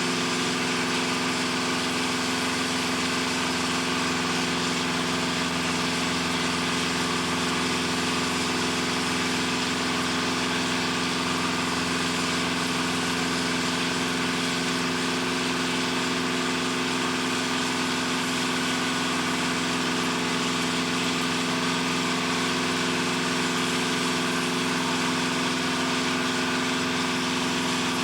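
Steady drone of heavy machinery running without change: a constant hum of several low tones over even mechanical noise.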